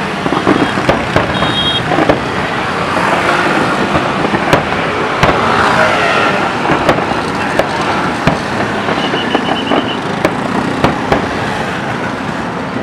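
Fireworks display going off: irregular sharp bangs and pops over a continuous noisy din, with a few brief high whistles.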